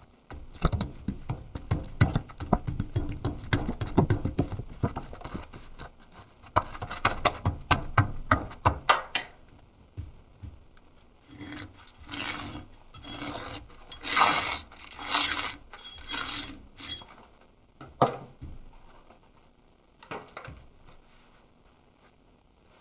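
Rough scraping strokes of a hand tool worked against a workpiece, fast and dense at first, then slower and more separate, with a single sharp knock near the end.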